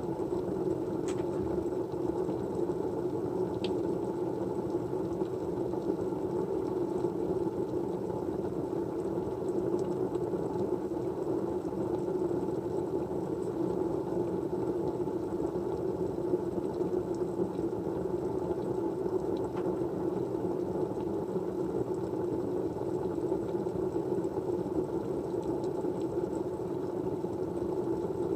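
Steady, low, even white noise, a dull rushing hiss that does not change, with a few faint ticks here and there.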